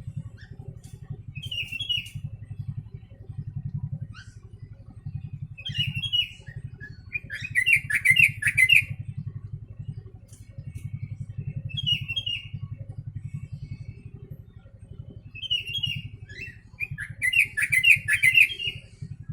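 Yellow-vented bulbul (trucuk) singing song phrases learned from the sooty-headed bulbul (kutilang), in short bursts of chirping notes. Two longer, louder runs of rapid notes come about a third of the way in and near the end, over a steady low hum.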